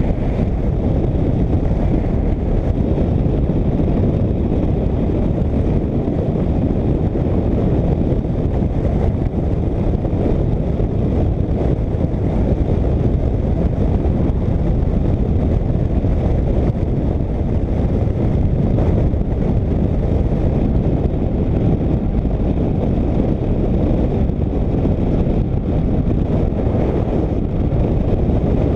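Motorcycle cruising at a steady speed: a constant low rumble of engine and road noise mixed with wind rushing over the microphone.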